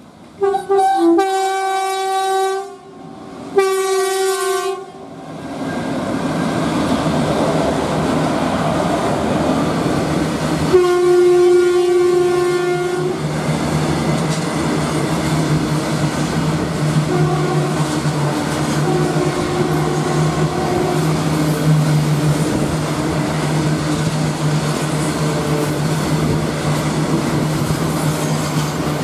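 Electric locomotive horn sounding two long blasts as a loaded freight train approaches. The train's open wagons then roll past with a steady rumble and wheels clacking over rail joints, and another horn blast comes about eleven seconds in.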